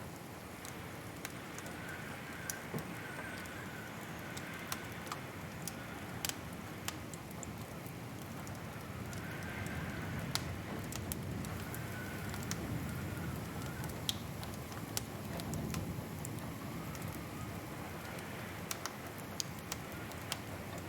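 Wood fire crackling in a fireplace: sharp, irregular pops over a steady low rushing hiss, with a faint wavering whistle now and then.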